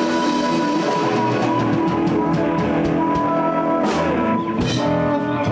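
Live blues band playing an instrumental passage: electric guitars, bass and drum kit.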